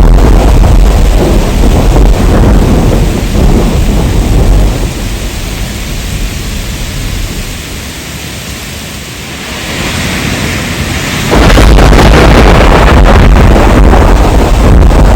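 Heavy rain with deep rolling thunder. The rumble fades down through the middle, then comes back loud all at once about eleven seconds in.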